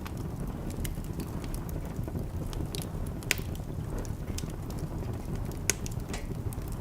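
Wood fire in a fireplace crackling, with a steady low rumble and scattered sharp pops, two of them louder, a little over three seconds in and near six seconds in.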